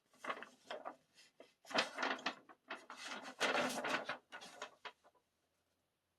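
Stiff paper rustling and crinkling in irregular bursts as a folded paper poster is handled, stopping about five seconds in.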